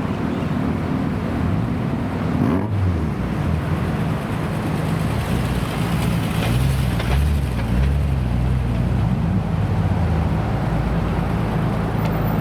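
Car engine running with a deep exhaust note, its pitch wavering slightly as it is blipped gently around the middle.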